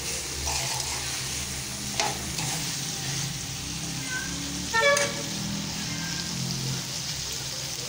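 Mutton and browned onions sizzling in hot oil as they are fried and stirred in an aluminium pot. There is a click about two seconds in and a brief pitched tone about five seconds in.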